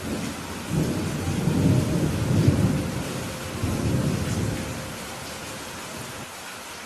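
Steady rain with a long roll of thunder that swells about a second in, peaks partway through and fades away by about five seconds.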